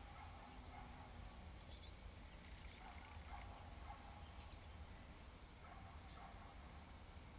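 Near silence: faint outdoor background with distant birds calling, a few short high chirps that drop in pitch and some weaker lower calls.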